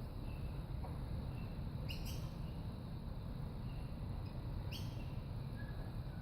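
Lorikeet giving two short, sharp calls, about two and five seconds in, with a few faint chirps between, over a steady low rumble.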